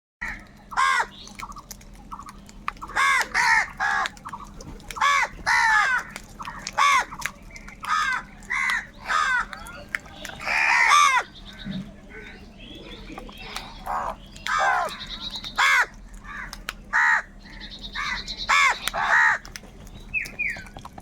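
Several crows cawing repeatedly, with harsh calls coming one or two a second and sometimes overlapping.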